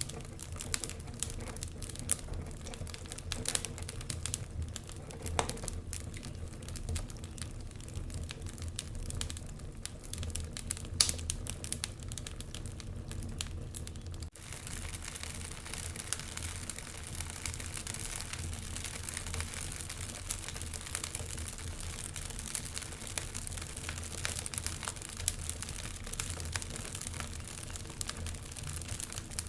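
Wood fire crackling in a fireplace: a steady run of small irregular pops and snaps, with a sharper pop about 11 seconds in. About halfway through the crackle briefly drops out, then comes back denser and hissier.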